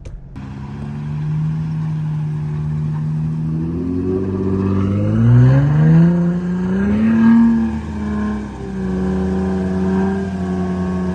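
Jeep Gladiator's engine revving under heavy load while pulling a stuck tow truck out of mud on a recovery rope. The revs climb over several seconds, peak about seven seconds in, dip briefly, then rise again and hold.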